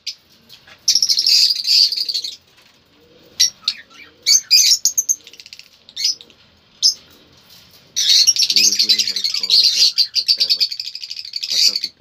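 Cage birds in an aviary chirping and chattering: two long, dense bouts of high-pitched calls, one about a second in and one from about eight seconds to near the end, with short single chirps in between.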